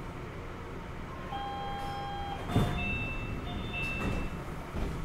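Kobe New Transit 3000 series rubber-tyred automated guideway train braking into a station, heard from inside the car. Its Mitsubishi SiC VVVF inverter gives a steady high whine of several tones that shift pitch in steps, over a low running rumble, with a single thump about two and a half seconds in.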